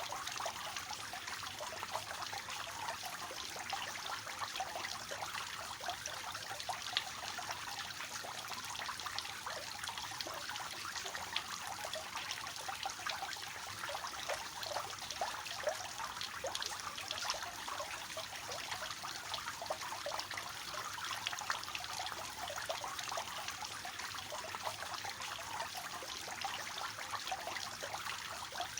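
Water falling steadily from a three-tiered cascade fountain, a continuous trickling and splashing with many small drops.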